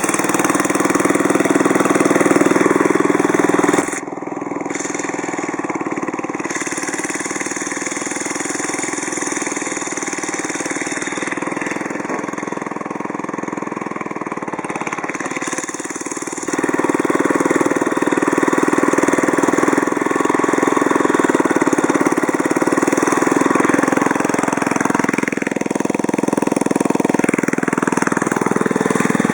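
Small Briggs & Stratton engine on a restored Deckson Mini Mustang lawnmower, running steadily. Its sound drops about four seconds in and picks up again about sixteen seconds in.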